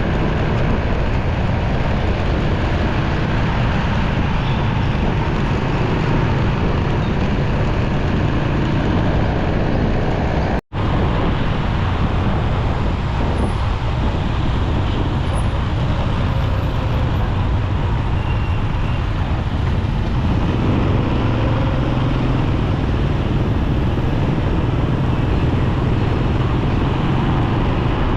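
Steady noise of a motorcycle riding through busy city traffic, its engine mixed with the sound of surrounding vehicles. The sound cuts out for a split second about ten seconds in.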